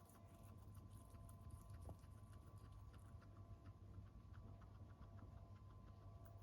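Guinea pigs chewing snacks: faint, quick crunching clicks, several a second, over a low steady hum.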